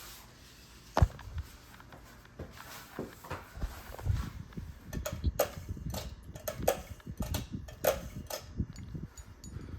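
A ceiling fan's pull-chain speed switch clicks sharply about a second in as it is set to high speed. Irregular light knocks and taps follow.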